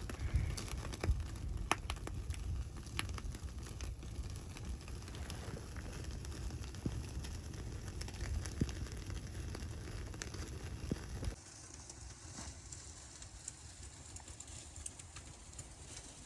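Wood fire crackling with scattered sharp pops over a low rumble. About two-thirds of the way through, the sound cuts abruptly to a quieter, hissing background.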